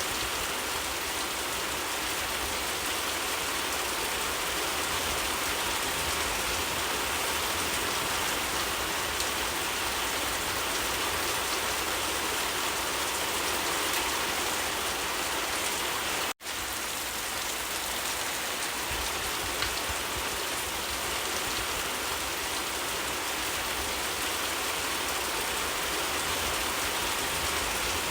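Steady rain falling in an even, dense patter, with a split-second dropout about halfway through.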